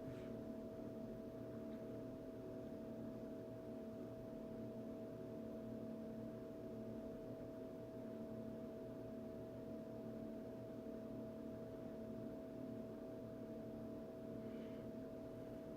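Faint, steady hum made of several constant tones, one higher tone standing out, with no change throughout.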